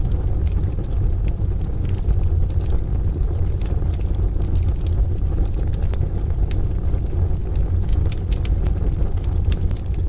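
Wood fire crackling, with many small sharp pops at irregular intervals, over a deep steady rumble and a soft wash of rain.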